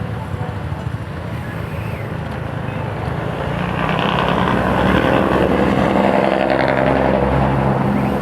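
Yamaha YTX 125 cafe racer's single-cylinder four-stroke engine running while the bike is ridden, getting louder about halfway through.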